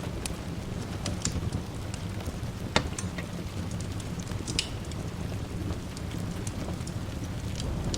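Wood fire crackling with scattered sharp pops, the loudest about three seconds in, over the steady hiss of rain and a low rumble.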